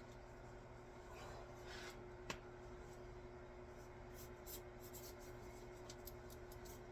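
Near silence: room tone with a steady low hum, one sharp click a little over two seconds in, and faint light ticking and rubbing in the second half.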